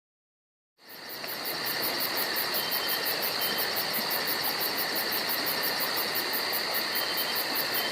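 Insect chorus, like crickets: a steady high-pitched trill with fast, even pulsing. It fades in after about a second of silence.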